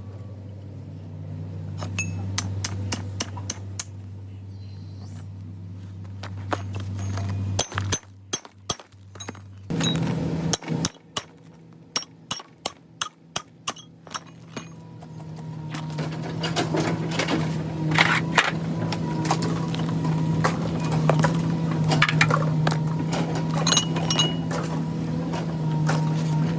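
Pieces of a broken cast iron motor case clinking and knocking against each other as they are handled, dozens of sharp clicks over a steady low machine hum. The hum shifts higher about ten seconds in.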